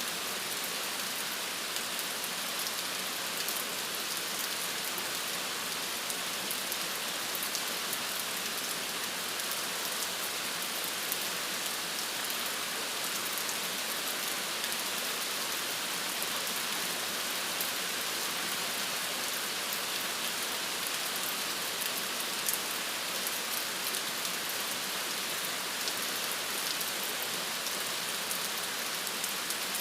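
Steady rain falling, an even hiss with fine drop ticks throughout.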